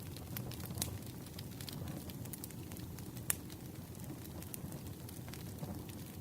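Campfire with wood burning: a steady low rumble of flames under scattered sharp crackles, with a louder pop about halfway through.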